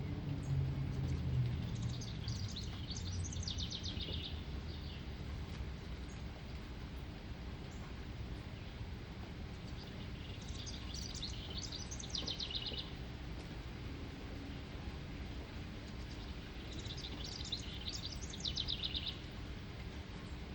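A songbird singing the same phrase three times, about seven seconds apart. Each phrase lasts about two seconds and ends in a fast trill. A steady outdoor hiss runs underneath.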